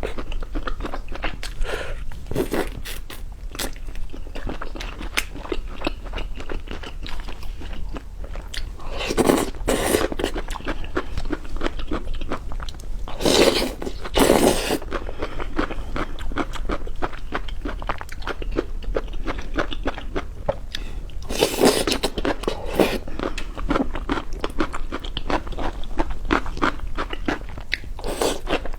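Close-miked mukbang eating: continuous crunchy chewing made of many rapid small crunches, with a few louder crunching bites about 9, 13–15 and 21–23 seconds in.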